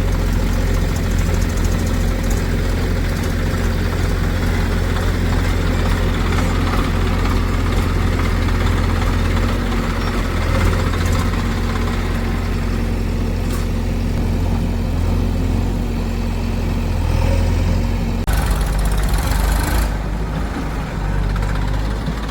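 Heavy diesel machinery engine running steadily with an even low hum. About eighteen seconds in the sound changes abruptly to a rougher engine note.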